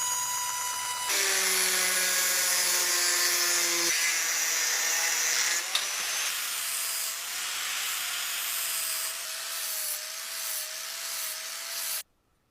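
Small electric power tool running, a steady motor hum over a rubbing, grinding noise, in short spliced clips: the sound changes abruptly about a second in and again around six seconds, then cuts out near the end.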